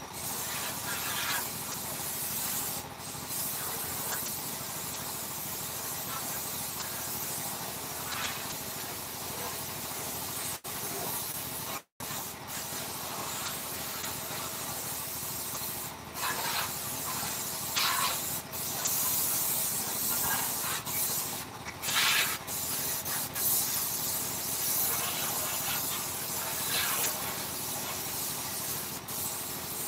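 A steady hissing spray of air, with a brief cut-out about twelve seconds in.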